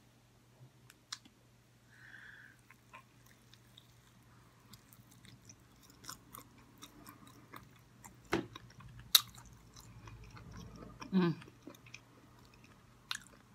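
Close-miked chewing of fried chicken wings: soft wet mouth clicks and smacks, with a few sharper clicks a little past the middle.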